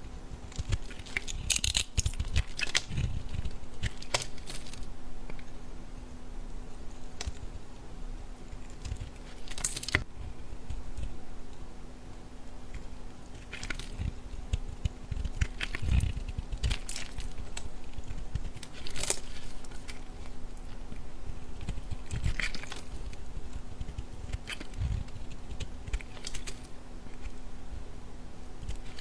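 Bar soap being cut and crushed with a knife: irregular crisp crunches and crackles a few seconds apart, some in quick clusters, over a steady low hum.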